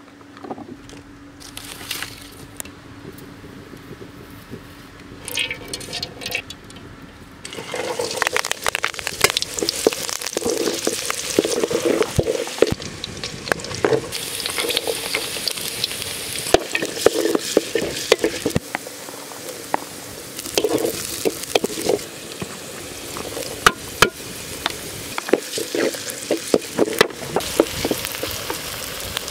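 Faint crackling at first, then from about eight seconds in a steady sizzling hiss with many sharp crackles: a wood fire burning, and chopped vegetables frying in a pan while a wooden spatula stirs them.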